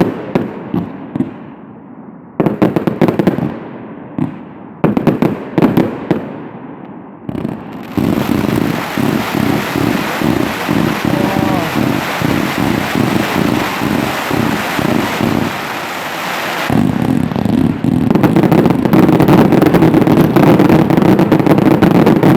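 Fireworks finale: several volleys of loud sharp bangs, then from about eight seconds in a dense, unbroken barrage of rapid reports and crackle that grows louder again near the end.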